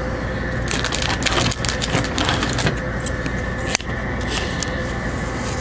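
Pokémon trading cards being handled and flipped through, a run of soft ticks and rustles over a steady background hum.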